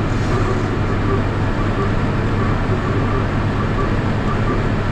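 Tractor engine running steadily under load while pulling a small square baler that is working hay.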